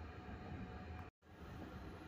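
Steady low rumble of a moving double-decker passenger train heard from inside the carriage, with a faint steady hum. The sound drops out completely for an instant a little over a second in.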